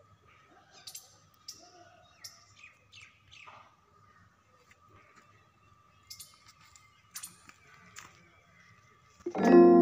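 Small birds chirping in short, scattered calls over a faint steady high tone. Near the end, music comes in loudly.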